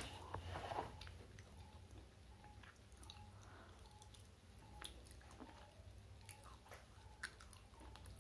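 Faint close-miked chewing of crushed slate pencil: a sharp crunch right at the start, a short grinding burst just after, then scattered small crunches and mouth clicks.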